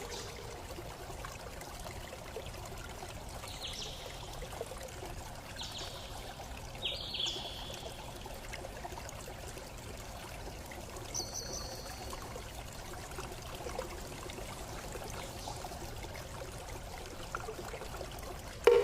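Steady sound of running, trickling water with a handful of short, high bird chirps scattered through it.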